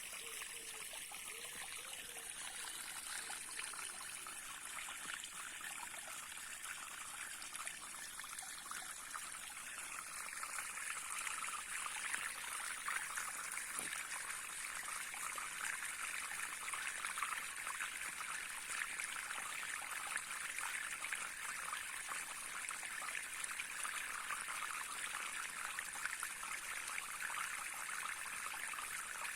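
A small stream trickling and gurgling over stones in a steady wash of running water, growing a little louder about ten seconds in.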